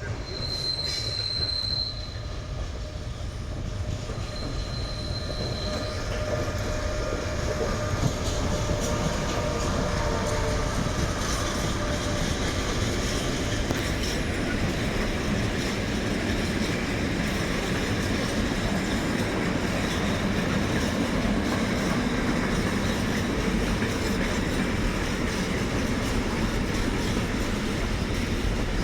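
Freight train rolling past, with steady wheel-on-rail noise that builds over the first several seconds and then holds. A high-pitched wheel squeal sounds twice near the start.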